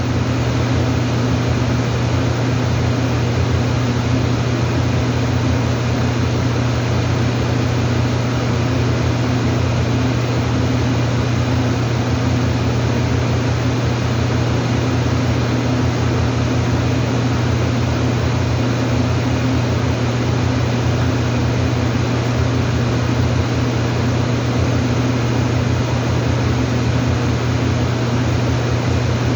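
Steady mechanical hum with a low drone, unchanging throughout.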